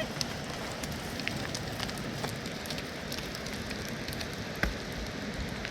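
Open wood fire crackling, with scattered sharp pops over a steady hiss.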